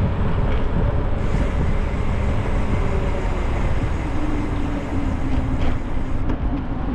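Steady rumble of wind on the microphone mixed with road and traffic noise, with a faint engine hum underneath.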